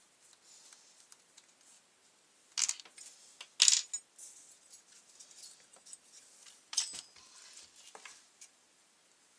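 A few sharp metallic clinks and knocks from handling the brush cutter and its parts during a repair, the loudest a bit under four seconds in.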